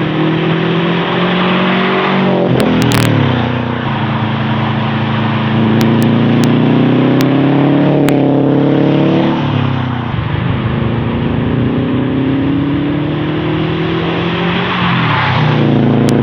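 Subaru WRX STI's turbocharged flat-four running through a new aftermarket exhaust under acceleration. The engine's pitch climbs steadily, then drops back, three times over, with a few short sharp clicks.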